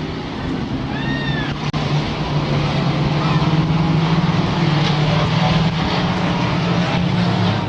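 Stock race trucks' engines running on a dirt oval, a steady drone that grows louder about halfway through as the trucks come closer. A brief high squeal rises and falls about a second in.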